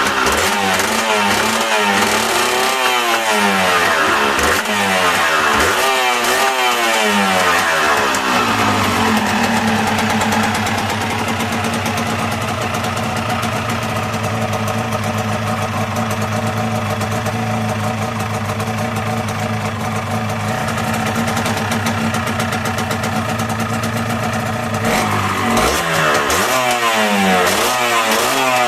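Yamaha TZR125's single-cylinder two-stroke engine being revved in repeated blips of the throttle, settling to a steady idle about nine seconds in, then blipped again near the end.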